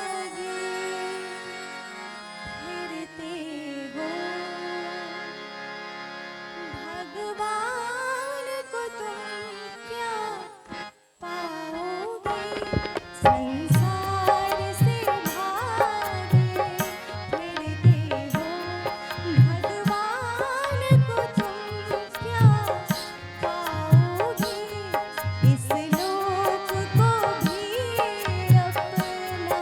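Opening of a Hindustani-style song played on harmonium: a slow melody that slides between notes over held harmonium chords, with no beat. After a brief gap about eleven seconds in, dholak and tabla come in with a steady, regular beat under the continuing melody.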